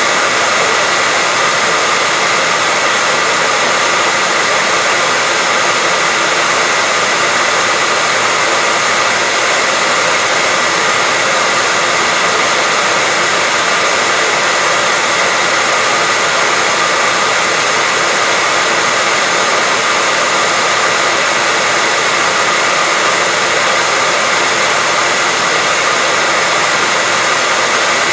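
Electric hair dryer running continuously, a steady, unchanging blowing hiss with a faint whine, used as white noise to lull a baby to sleep.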